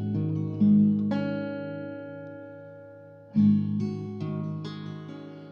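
Acoustic guitar played without singing: a chord strummed and left to ring out slowly, then another strum about three seconds in with a few more notes picked after it, fading again.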